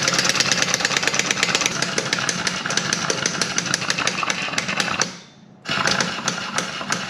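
Pneumatic impact wrench hammering in rapid blows, pausing for about half a second near five seconds in, then starting again.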